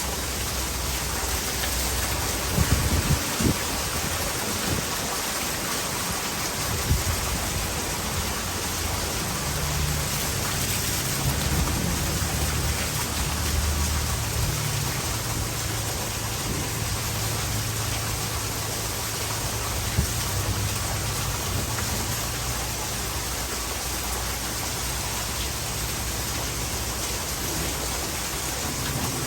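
Heavy rain falling steadily in a thunderstorm, with thunder rumbling low through the middle and a few sharp cracks near the start.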